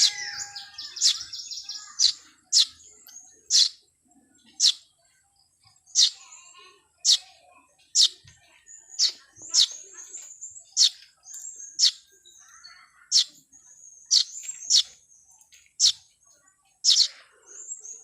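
Small birds chirping: a run of short, sharp, high chirps about once a second, some in quick pairs, with a brief rapid twitter in the first second.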